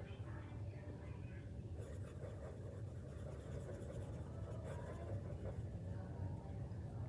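Drawing strokes on paper: the faint scratch of a drawing tool sketching flower petals, over a steady low hum.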